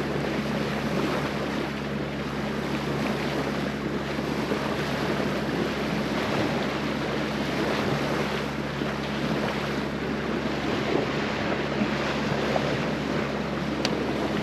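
Wind buffeting the microphone over the wash of sea waves from a boat under way, with a steady low hum underneath.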